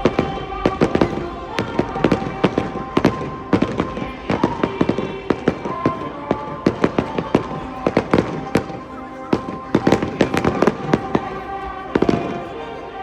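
Fireworks display going off in rapid succession: many sharp bangs and crackling shell bursts, densely packed throughout, with music playing underneath.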